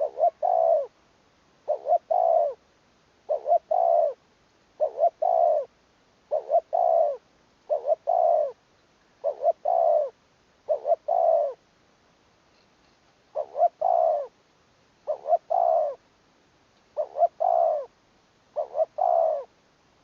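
Spotted dove cooing over and over. Each phrase is two short notes and then a longer, slightly falling coo, repeated about every one and a half to two seconds, with one slightly longer pause about midway.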